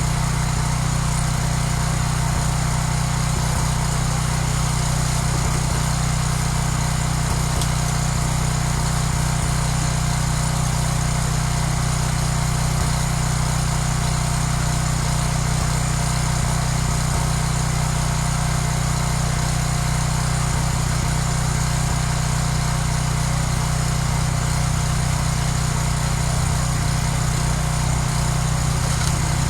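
A small engine running steadily at constant speed, with an even hum and no change in pitch or level.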